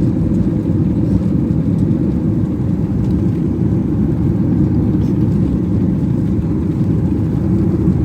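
Cabin noise inside a Boeing 737 MAX 9 airliner: a loud, steady low rumble of the engines and airflow.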